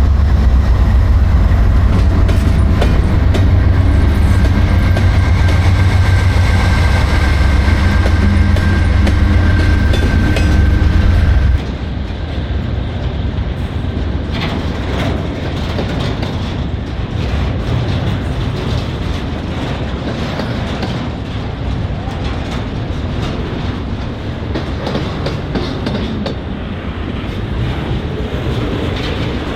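Norfolk Southern freight train passing. A heavy low rumble drops off suddenly about twelve seconds in to a lighter rumble with the repeated clickety-clack of wheels over rail joints.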